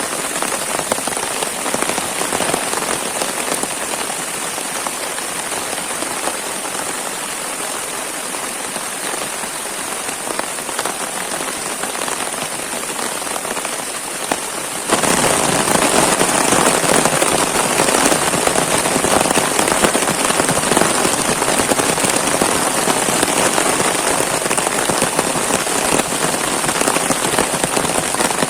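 Heavy rain falling steadily, with a dense patter of drops; it grows suddenly louder about halfway through.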